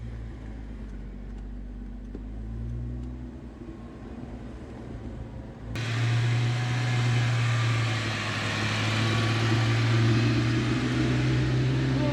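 Off-road vehicle's engine running steadily at low revs as it crawls down a steep trail descent. It becomes suddenly much louder and fuller about six seconds in.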